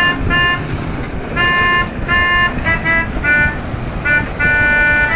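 A musical truck horn playing a tune of short and held notes that change pitch, over a steady low rumble of engines and traffic.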